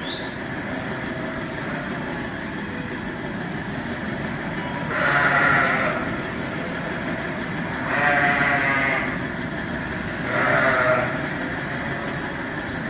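Calves bawling: three loud, drawn-out calls of about a second each, a few seconds apart, over a steady background rumble.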